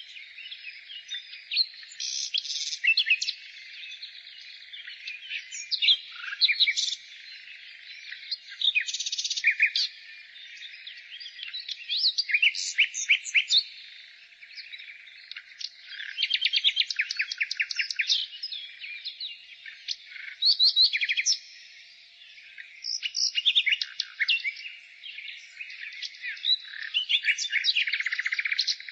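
Several songbirds singing over one another in a dense chorus of chirps, fast trills and quick runs of repeated notes, with no pause throughout.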